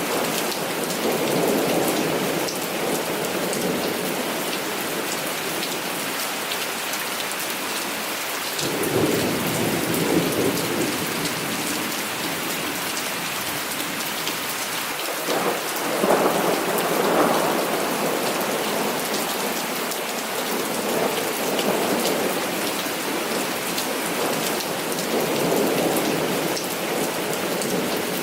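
Heavy rain falling steadily, with rolls of thunder rumbling over it several times, loudest about halfway through.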